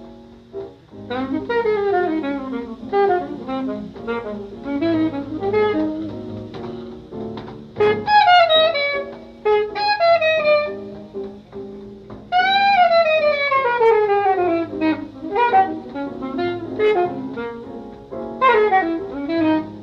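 Instrumental jazz with a saxophone playing fast runs, several of them long falling sweeps, over a steady low bass line.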